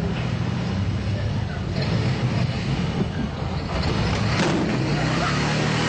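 Police motorcycle engine running steadily as it rides in, with a brief sharp noise about four and a half seconds in.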